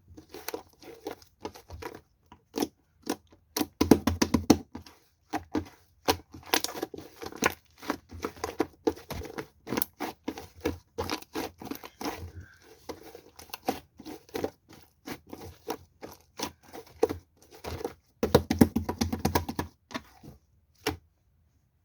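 Close-up crinkling and tearing: a dense run of sharp crackles and clicks from something being handled by hand, with two heavier bursts, about four seconds in and again near the end, before it stops.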